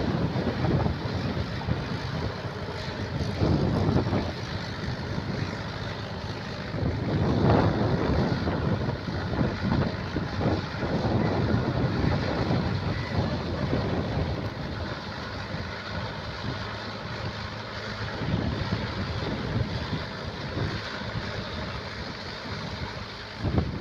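Tractor engine running, with wind buffeting the microphone in uneven gusts.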